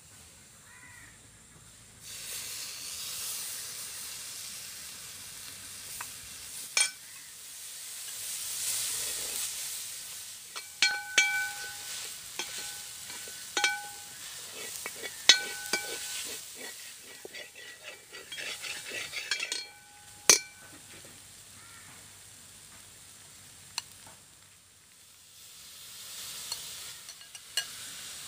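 Chopped tomatoes and onion masala sizzling in hot oil in a metal pot, the sizzle starting about two seconds in. A steel spoon stirs and scrapes through it, knocking the pot with sharp clinks that ring on briefly, mostly in the middle. The sizzle rises again near the end as cut squid goes into the pan.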